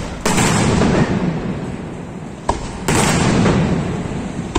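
Aerial firework shells bursting overhead. Two loud bursts about two and a half seconds apart each linger for about a second, with a single sharp crack just before the second.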